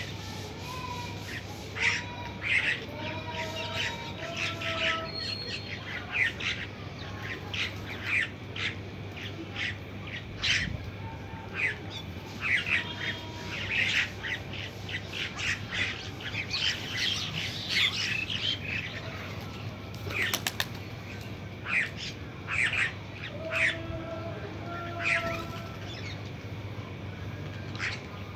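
Birds calling: many short, sharp chirps and squawks in quick, irregular bursts, with a few longer thin whistled notes between them.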